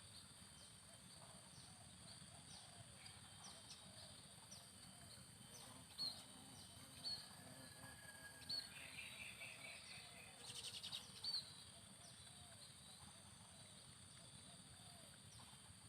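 Outdoor ambience: a steady high insect drone with several short, sharp bird chirps about halfway through, and a quick rattling burst of calls a few seconds later.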